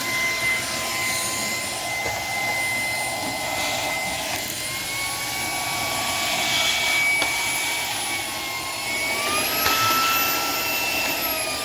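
Shark PowerDetect vacuum cleaner running with the crevice tool, a steady motor whine over rushing air. The whine rises in pitch about nine seconds in and stays higher.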